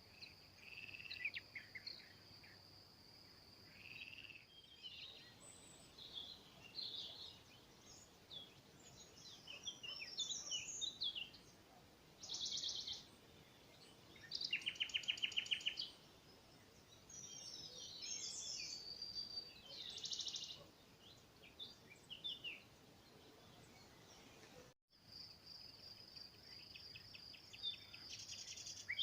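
Small songbirds singing: a mix of chirps, whistled notes and fast rattling trills, the loudest trill about halfway through. A steady high insect trill, like a cricket's, sounds at the start and again near the end, after the sound briefly cuts out.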